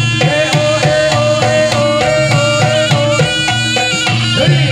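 Live Jaranan gamelan music: a shrill reed pipe (slompret) carries a held, wavering melody over steady hand-drum strokes and ringing gong-chime tones.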